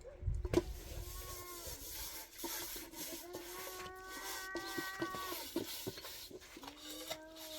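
Livestock calling in long drawn-out cries, over scattered light knocks.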